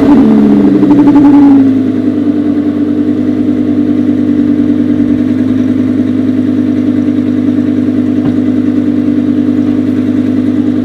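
Lamborghini Huracán V10 through a Fi Exhaust valvetronic cat-back: the revs fall back from a blip in the first second or two, then settle into a steady idle.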